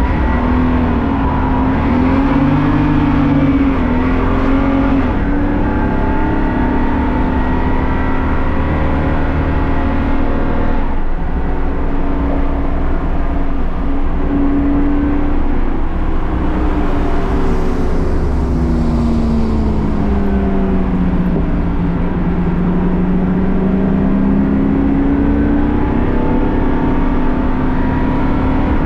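BMW race car engine running hard, its pitch climbing and dropping again and again as it accelerates, shifts and slows, with a long slow fall in pitch past the middle before it climbs back.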